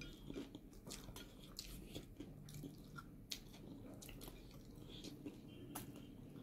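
Faint mouth sounds of a person chewing a meal of rice and fish curry, with a few sharp little clicks.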